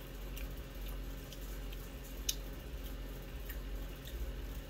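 A person chewing a small piece of cheese with the mouth closed: a few scattered soft wet mouth clicks and smacks, the loudest a little past two seconds in, over a low steady hum.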